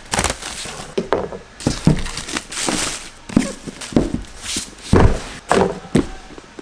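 A package being opened quickly by hand: a run of rustling and tearing of packaging, with several knocks and thumps.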